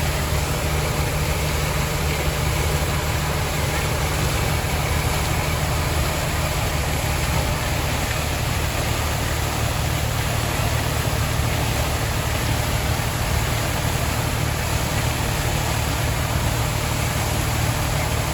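A vehicle engine idling steadily with a low drone, over a constant hiss.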